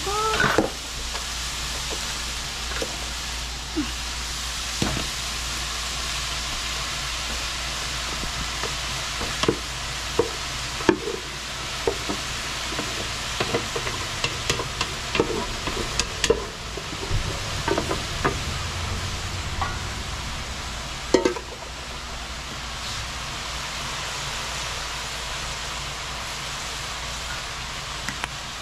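Shrimp and diced vegetables sizzling steadily in a large aluminium pot. Scattered knocks and scrapes of a wooden spoon against metal come mostly through the middle stretch, as cooked rice is knocked in from a smaller pot and stirred.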